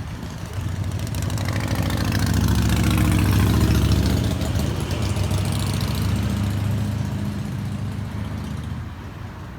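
A motor vehicle engine running, growing louder over the first three seconds or so, then slowly fading away.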